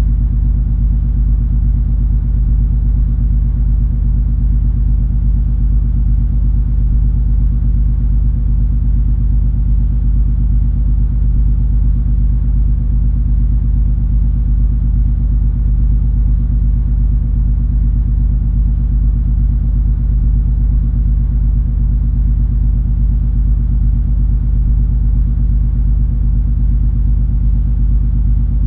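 Steady deep rumble of the cruise ferry MS Color Fantasy's diesel engines heard aboard while the ship is under way, a constant low hum of several tones with no change in level.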